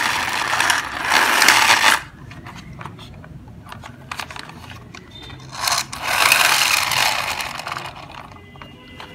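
Plastic toy police car being handled and run along, its wheels and gears whirring and scraping in two spells of about two seconds each, with light plastic clicks in between.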